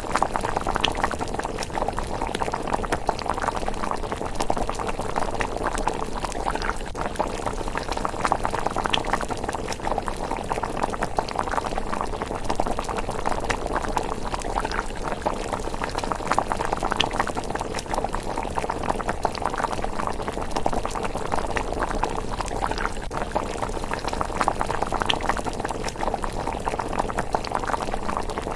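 A pot of rice porridge bubbling steadily at a simmer, a dense continuous burble with scattered small sharp pops.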